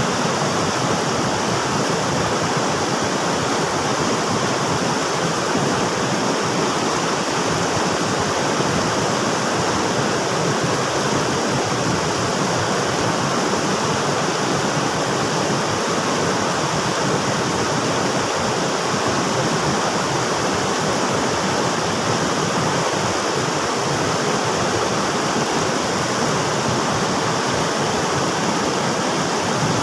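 River water rushing steadily, a constant full hiss and rumble of flowing water with no breaks.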